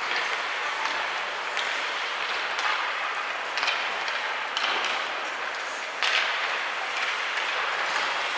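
Ice hockey play on a rink: short sharp scrapes and clacks, about one a second, over a steady hiss of arena noise.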